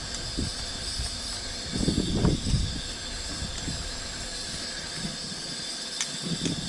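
Portable gas stove burner hissing steadily under a pot at the boil. Low rumbles swell about two seconds in and again near the end.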